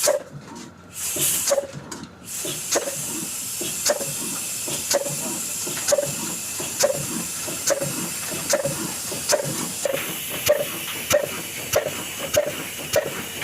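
Old Ruston Hornsby diesel engine starting: a few broken hissing puffs, then it fires with a slow, regular beat over a steady hiss, the beats speeding up from a little under one a second to nearly two a second as the engine picks up speed.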